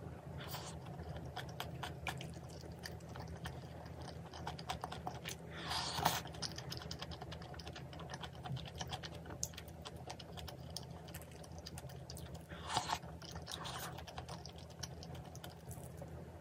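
Close-miked eating: chewing with a dense run of small clicks, and a few louder, noisier mouthfuls about six seconds and about thirteen seconds in, over a steady low hum.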